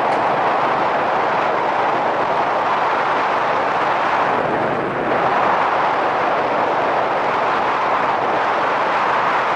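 Steady wind rush and riding noise from a Yamaha SRX400 motorcycle, heard from a helmet-mounted camera, with a brief dip about five seconds in.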